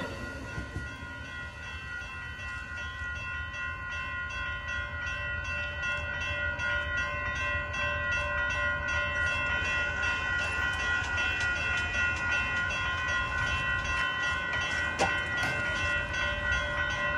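Train approaching and growing louder, under a steady ringing of several high tones held without a break, with rapid, regular clicks from about six seconds in.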